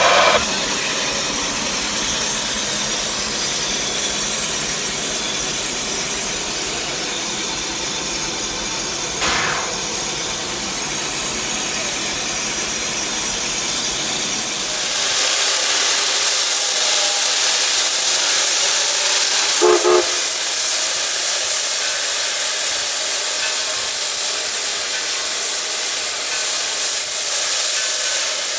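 Steam locomotive at a standstill, with a steady mix of noises at first. About halfway through it starts a louder, steady hiss of escaping steam that carries on to the end.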